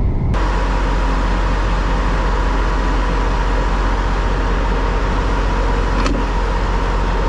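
Steady driving noise of a semi truck on the road: a low engine drone under a loud, even rush of road and wind noise, with a thin steady whine on top. It starts abruptly just after the start.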